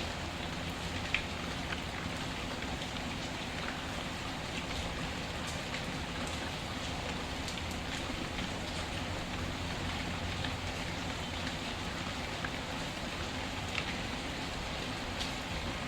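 Steady rain with a few scattered sharp crackles of a wood fire, the loudest about a second in.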